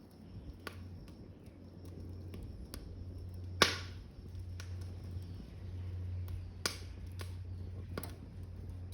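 Wood burning in a smokeless wood stove made from an 18-litre square can, with a steady low rumble and scattered sharp crackling pops, the loudest about three and a half seconds in.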